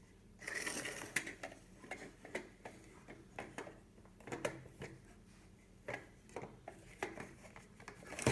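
Scattered light plastic clicks and rattles, with a brief scratchy rustle about half a second in, as a toy light's battery pack is unclipped and swapped by hand.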